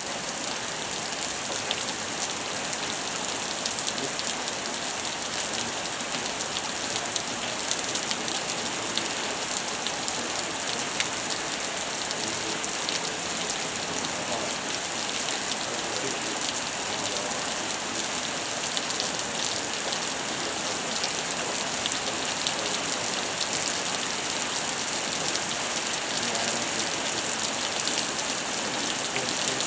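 Steady heavy rain falling during a thunderstorm, a continuous hiss dotted with many small drop ticks.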